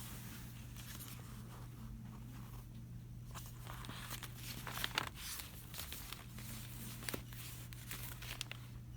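Store ambience: a steady low electrical hum under scattered soft rustles and clicks of packaged items being handled, with a sharper click or crinkle about five seconds in and again about seven seconds in.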